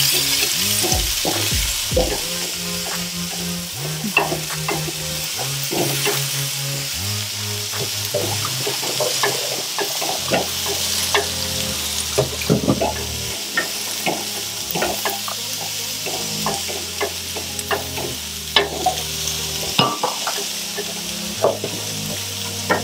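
Chopped onion frying in butter in a pan, sizzling steadily, with frequent clicks and scrapes of metal tongs stirring it against the pan.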